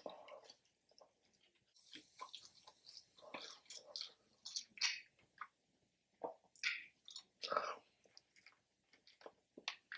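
Chewing and biting into fried chicken wings, in short irregular wet mouth sounds.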